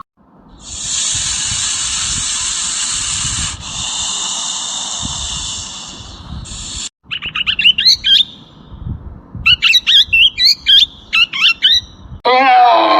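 A steady high hiss for about six seconds, then a bird's quick chirping calls in several rapid bursts; a loud honking call starts near the end.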